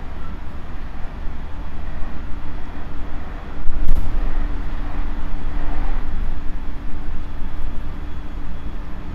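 JR Central 373 series electric train running, heard aboard motor car KuMoHa 373-8: a steady rumble of wheels on the rails with a low hum. A sharp knock comes about four seconds in, and the running noise is a little louder after it.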